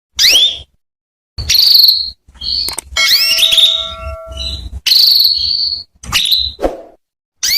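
Female domestic canary calling: a run of short chirps with quick rising and falling pitch sweeps, repeated about once a second with brief pauses between.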